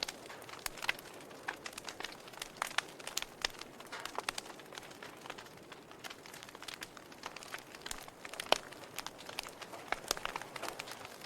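Burning logs crackling in a fireplace: irregular pops and snaps over a soft hiss, with one louder pop about eight and a half seconds in.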